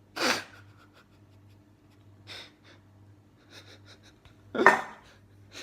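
Breaths close to the microphone, two strong ones about a quarter second in and near the end, with a fainter one between and small handling ticks, over a steady low hum.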